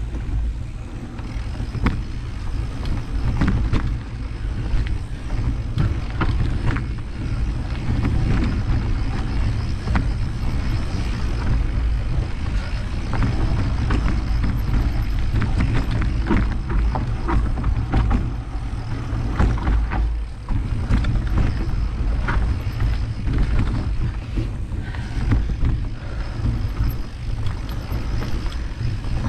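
Mountain bike being ridden over a rough trail: a steady low rumble of wind on the microphone, with frequent short clatters and rattles from the bike as it goes over bumps.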